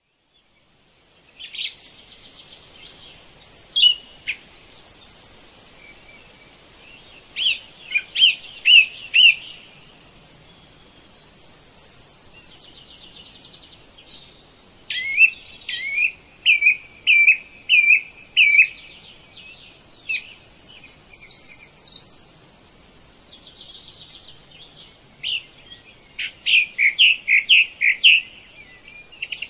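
Birds singing: phrase after phrase of quick, high chirping notes, some in runs of repeated notes, with short pauses between songs. It begins about a second and a half in.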